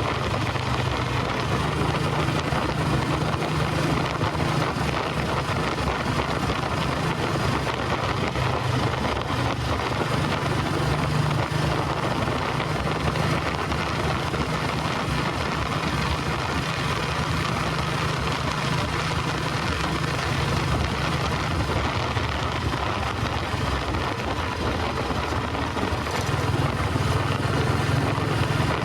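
Royal Enfield Bullet 350 Electra's cast-iron single-cylinder engine running under way with its steady thump, the note swelling at times, over wind rush on the microphone.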